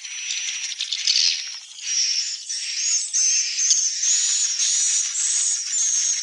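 Swiftlets twittering: a dense, high-pitched rattling chatter with short, sharp chirps repeating about twice a second from about two seconds in.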